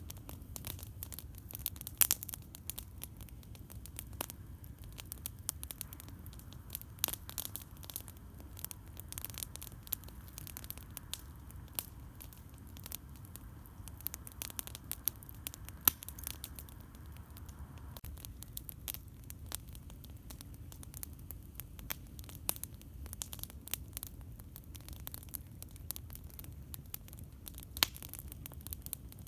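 Wood campfire crackling with a constant scatter of small sharp pops and a few louder snaps, about two seconds in, mid-way and near the end, over a steady low rumble.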